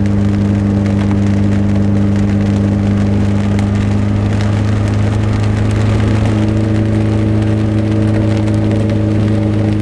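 Morgan 4/4 sports car's engine droning at a steady speed on the move, with rain drops pattering and ticking in irregular clicks over it.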